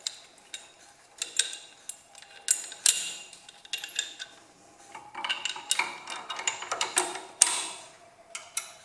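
Steel 3-point hitch parts being fitted onto a small tractor: irregular metal clinks and knocks with short ringing, the sharpest knock about seven and a half seconds in.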